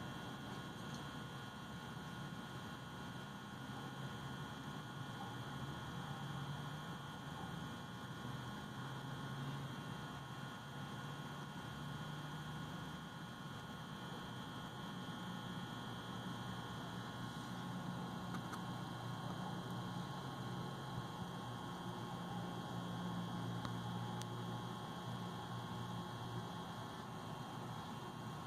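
Steady low hum with faint steady high-pitched tones above it; no calls, knocks or other distinct events.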